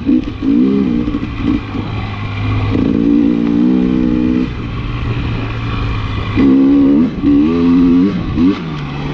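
KTM 300 XC-W TPI two-stroke single-cylinder dirt bike engine under load in deep sand, its revs rising and falling in repeated surges as the throttle is worked.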